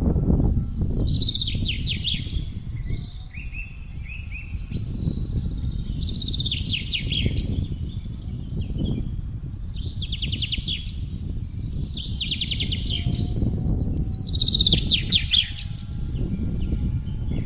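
Wind blowing in low, gusting rumbles while a songbird repeats a short, rapid trilled phrase every two to three seconds.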